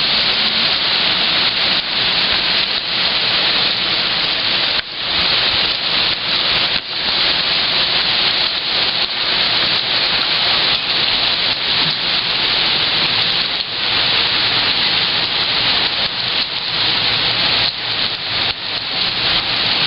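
Heavy wind-driven thunderstorm downpour from a microburst: a dense, steady hiss of rain with a few brief dips in level.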